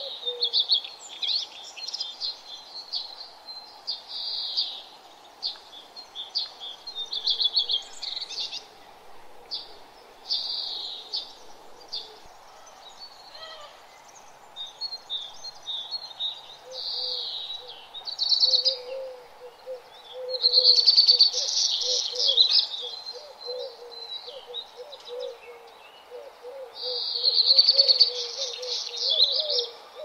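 Birds singing and chirping in quick, varied overlapping phrases, with the loudest bursts in the second half. A lower run of quick repeated notes joins beneath them about halfway through.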